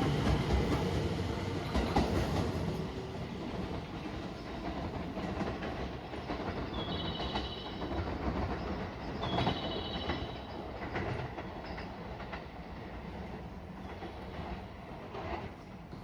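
A train running on the track with wheels clacking over the rail joints, its rumble fading steadily as it moves away. Short, high chirping tones sound twice near the middle.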